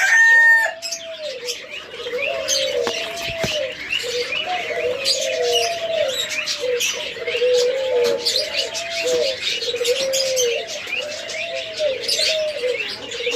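Many caged doves cooing at once, their arching coos overlapping one after another, with small birds chirping high above them.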